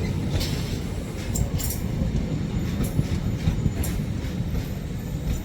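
A passing train's wheels rumbling steadily on the rails, with irregular sharp clicks as the wheels run over rail joints.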